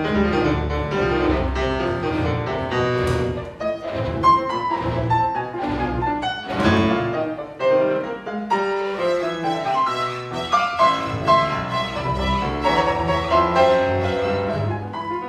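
Solo piano and a chamber string orchestra playing a classical concerto together: quick piano notes over bowed strings, with no break in the playing.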